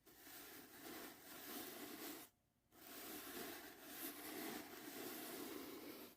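Soft brushing strokes close to the microphone, a steady swishing that pauses briefly about two seconds in, then carries on.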